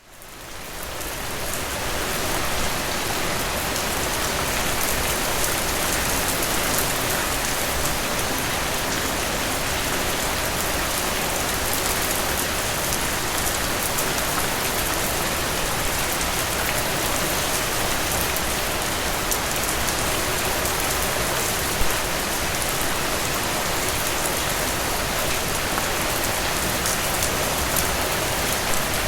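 Heavy rain falling steadily, a dense hiss of many raindrop patters striking a surface, fading in over the first couple of seconds, with one slightly louder drop a little past twenty seconds.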